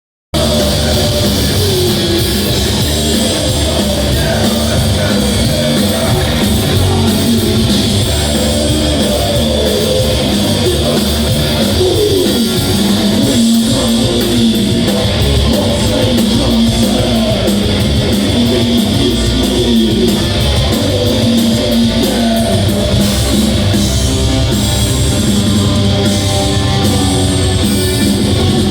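A heavy metal band playing live, with electric guitars and a drum kit, loud and continuous. It starts abruptly a moment in.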